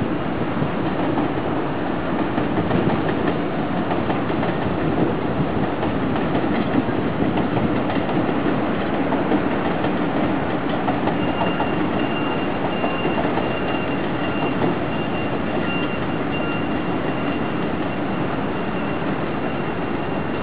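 Taiwan Railway EMU400 commuter electric multiple unit running along an elevated track, a steady rumble of wheels and running gear. A thin high whine joins about halfway through.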